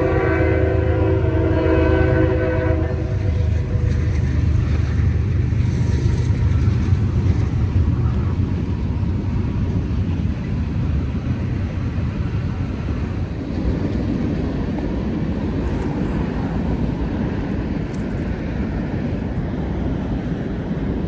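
Train horn sounding a held chord that stops about three seconds in, over the steady low rumble of a train passing on the tracks.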